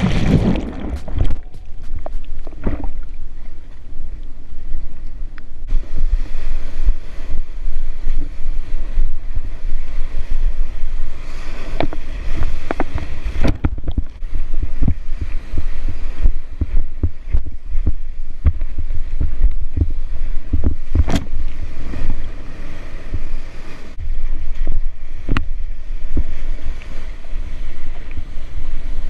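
Strong wind buffeting the microphone with a constant low rumble, over surf and irregular splashes and knocks of water.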